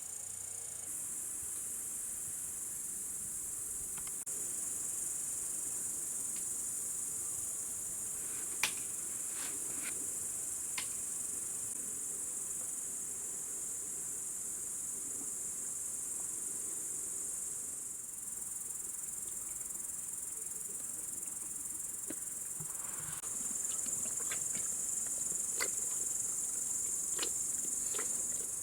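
Steady, shrill chorus of insects, such as crickets, running without a break and growing louder about 23 seconds in. A few sharp clicks come through around 9 to 11 seconds in and again near the end.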